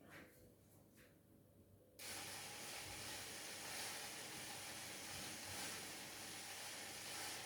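Two faint clicks, then a steady hiss that starts abruptly about two seconds in and holds.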